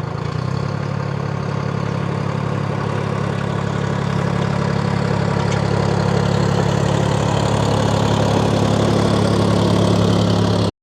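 An engine idling with a steady low hum that grows gradually louder, then cuts off abruptly near the end.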